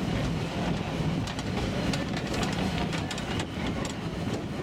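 Narrow-gauge passenger train rolling along, heard from an open car: a steady rumble of the cars on the track with scattered clicks from the wheels and rails.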